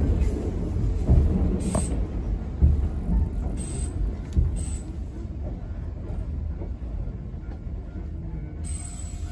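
Low rumble of a Choshi Electric Railway train running on the rails, heard from on board, with a few knocks in the first half that settle into a steadier, quieter rumble near the end.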